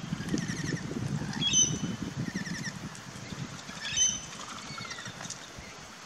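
Birds calling: short high chirps and whistles, with the loudest calls about one and a half and four seconds in, over a low rumble in the first half.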